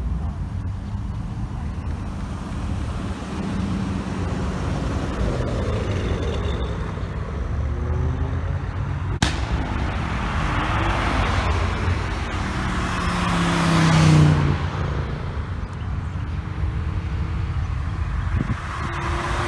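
Cars idling and driving out past the microphone under a steady engine rumble. One car passes close and loud about fourteen seconds in, its engine note rising and then falling away as it goes by. There is a single sharp click about nine seconds in.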